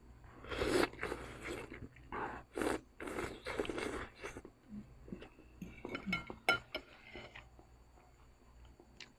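Close-up eating sounds: a run of crunchy chewing and biting in the first few seconds, then a few light clicks and clinks about two-thirds of the way through.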